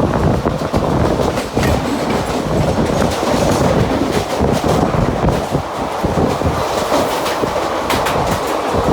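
Mumbai suburban local train running at speed, with a steady rumble and the wheels clattering irregularly over the track.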